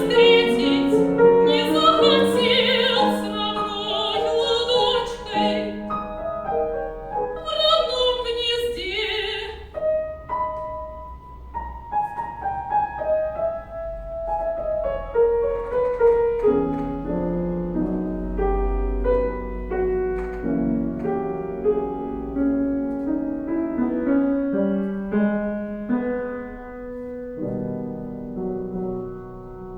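Operatic soprano singing an aria with wide vibrato over piano accompaniment. About a third of the way in her voice stops, and the piano carries on alone with a solo passage.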